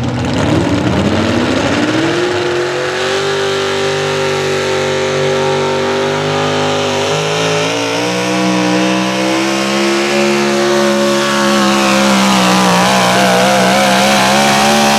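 Naturally aspirated 650-cubic-inch big-block Chevrolet V8 of a modified 4x4 pulling truck at full throttle on a sled pull. It revs up over the first two seconds and holds high, its pitch steps down about seven and a half seconds in, and the pitch wobbles in the last few seconds.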